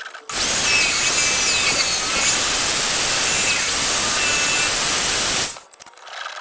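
A power tool running on metal, a loud steady hiss with thin wavering high squeals. It runs about five seconds, stops briefly near the end, then starts again.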